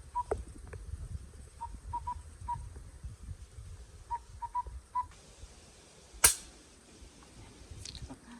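Short whistled calls, all at one pitch, repeated in groups of two or three; then a single sharp, loud shot about six seconds in.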